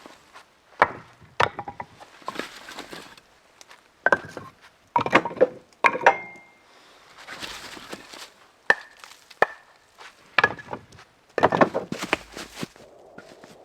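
Split firewood logs knocking against one another as they are packed: irregular sharp knocks of dry wood on wood, several in quick clusters, some with a short ring, with rustling between them.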